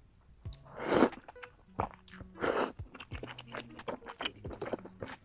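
A person chewing and crunching food close to the microphone: many small wet clicks of chewing, with two louder noisy bites or slurps about a second in and again about two and a half seconds in.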